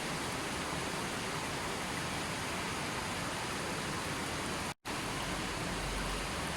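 Steady, even rushing of water in a nature-sound recording, cut by a split-second dropout to silence about three-quarters of the way through.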